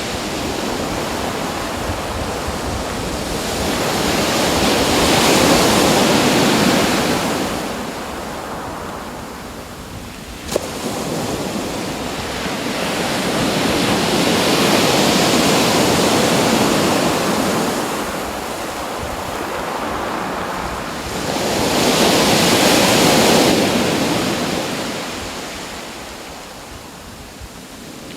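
Ocean waves breaking and washing in, swelling and fading about every eight seconds. A single sharp click comes about ten seconds in.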